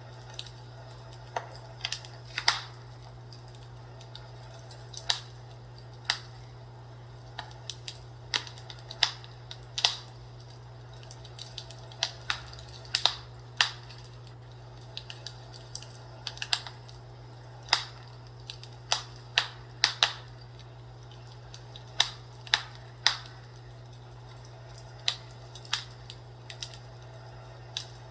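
Wood fire crackling, with irregular sharp pops and snaps about once or twice a second over a steady low hum.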